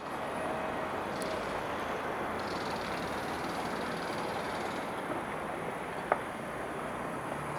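Steady rumble of vehicles and machinery, with a single sharp knock about six seconds in.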